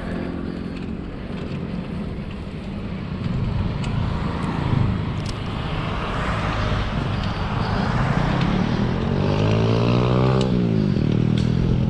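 Motor traffic passing the riders. One vehicle's engine note rises as it draws near and drops sharply as it goes past, about ten and a half seconds in, over a steady hiss of road and wind noise.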